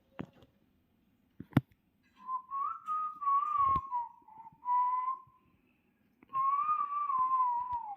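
Whistled melody in two wavering phrases, the first about two seconds in and the second starting past the six-second mark. A few light knocks come before and during the first phrase.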